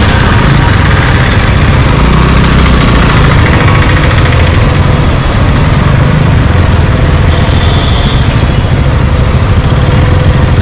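Motorcycle engine running steadily at low revs as the bike rolls slowly forward.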